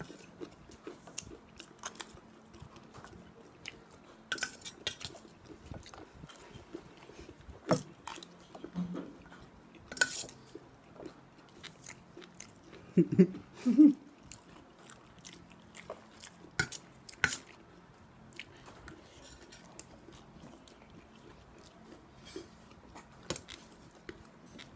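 Close-up chewing and crunching of a crunchy chatpat snack mix eaten fast by spoonfuls, with scattered sharp clicks of steel spoons on stainless steel bowls. About thirteen seconds in, a couple of short louder sounds from a voice stand out.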